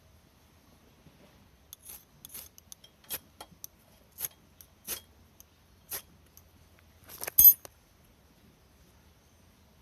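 Small hard objects clinking and tapping against each other, about a dozen light knocks over five seconds, ending in a louder clatter that rings briefly.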